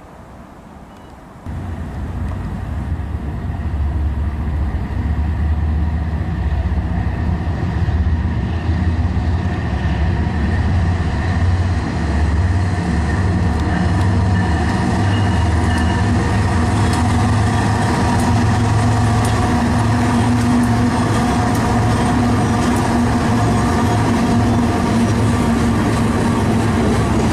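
BNSF GE diesel locomotives hauling a freight train pass close by, their engines running with a steady low hum and a higher whine, the level jumping up suddenly about a second and a half in. Later, freight cars roll past with clicking wheels on the rails.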